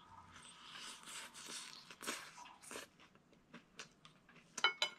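Close-up biting and chewing of a chicken sandwich: a run of crisp crunches through the first three seconds, then scattered softer crackles of chewing. Near the end comes a brief pitched vocal sound from the eater.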